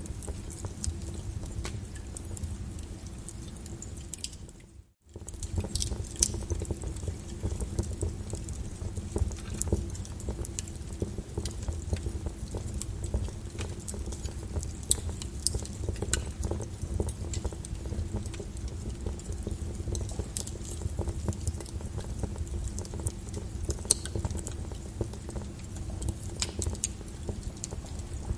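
Wood fire crackling and popping with rain pattering in a steady wash beneath it. About five seconds in, the whole sound fades out for a moment and starts again, as at the join of a looped recording.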